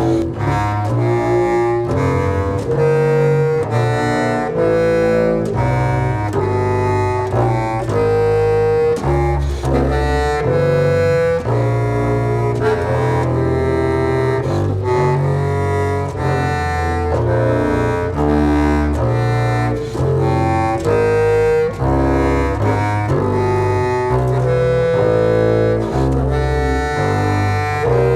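Double bass and clarinet playing together, a continuous run of separate held notes, low bass notes under higher reedy ones, changing about once or twice a second.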